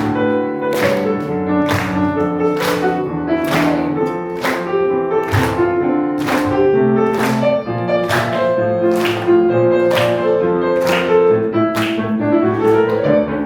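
Live piano accompaniment for a musical-theatre song, playing an instrumental interlude with no singing. Sharp strikes land on a steady beat about once a second.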